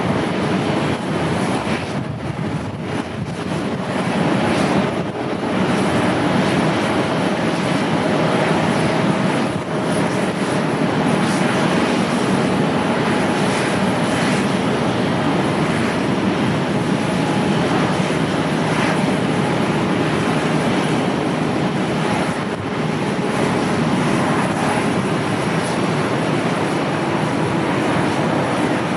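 Passenger jet's engines running, a loud steady rushing noise with a faint whine about a quarter of the way in.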